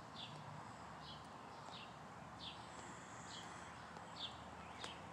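A bird calling faintly: a steady series of short, descending notes, roughly one a second, that stops near the end.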